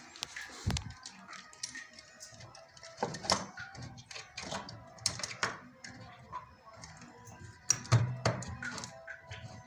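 Irregular clicking and knocking, with louder knocks about three seconds in and again about eight seconds in.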